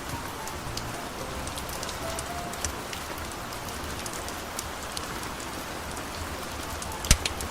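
Steady rain with many small scattered drop ticks, and one loud sharp crack about seven seconds in.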